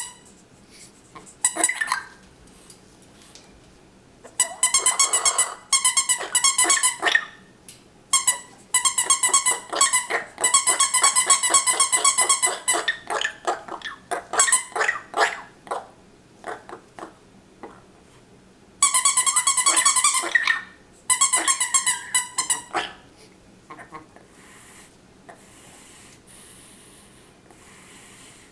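A parrot and a rubber squeak toy make repeated bursts of high, pulsing squeaks, each lasting one to four seconds, with short pauses between them.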